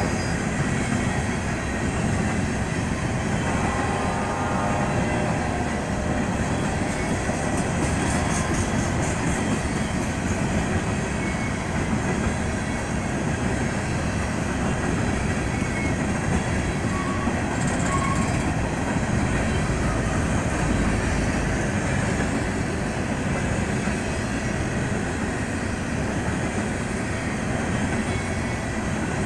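Coal hopper cars of a freight train rolling past, a steady rumble and clatter of steel wheels on the rails.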